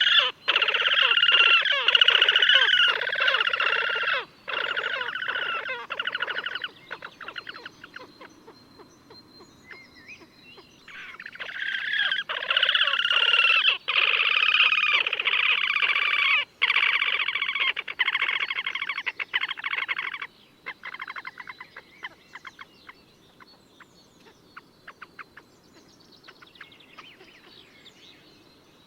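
Slavonian grebe giving long rippling trills of fast repeated squealing notes in two bouts. The first lasts about seven seconds; the second starts about eleven seconds in, runs about nine seconds and tails off into scattered faint notes.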